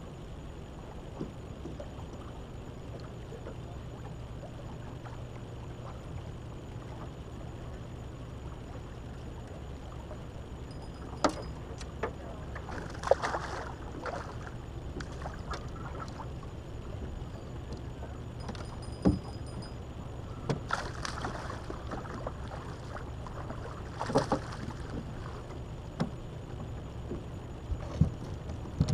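Steady wind rumble on the microphone over a small fishing boat. From about eleven seconds in come scattered knocks, clicks and short rattles as a hooked fish is reeled in and handled in the boat.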